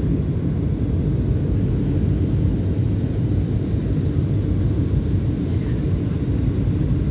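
Steady low rumble of a SunExpress jet airliner in flight on its approach to land, holding an even level with no change.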